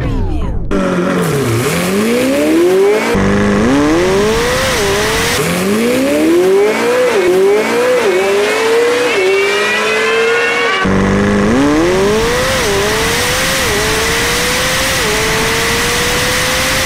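Race-car engine accelerating hard through the gears. Its pitch climbs and drops back at each upshift, in several runs that cut in abruptly about three and eleven seconds in.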